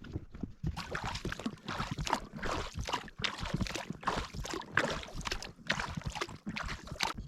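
Water splashing and sloshing in irregular bursts, a few a second, cutting off suddenly at the end.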